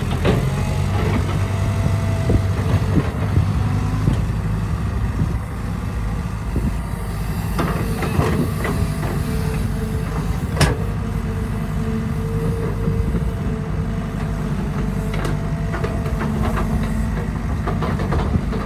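Diesel engine of a Caterpillar 312B hydraulic excavator running steadily, with a few sharp metallic knocks, the clearest about ten seconds in.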